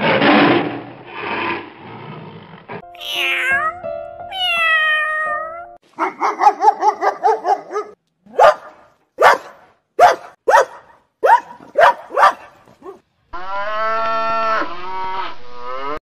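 A run of different animal calls: a tiger's rough growl at the start, then wavering higher-pitched calls, then dogs barking in a string of sharp barks from about eight seconds in, and a long drawn-out pitched call near the end.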